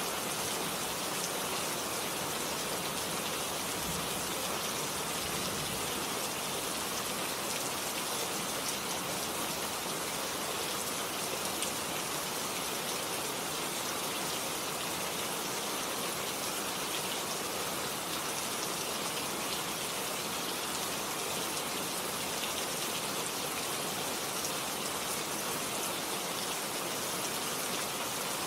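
Steady rain falling, a constant even hiss of many drops with no let-up.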